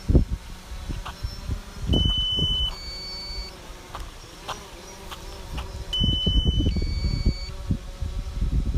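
A DJI Phantom 4 controller app sounds a two-part electronic warning beep twice, about four seconds apart: a steady tone, then a higher pair of tones, typical of its low-battery alert. Gusts of wind rumble on the microphone underneath.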